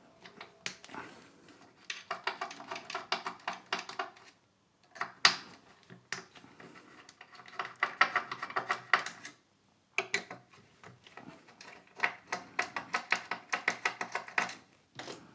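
Screwdriver loosening screws on a power-supply module: three runs of rapid clicking, with a single sharp knock about five seconds in.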